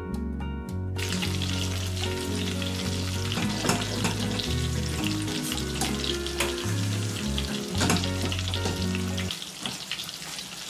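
Breaded steak frying in hot oil: a steady sizzle with occasional sharp crackles, starting about a second in. Background music with a bass line plays under it and stops near the end.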